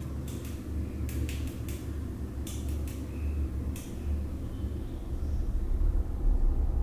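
A steady low drone with about ten sharp clicks, coming in clusters of two or three over the first four seconds.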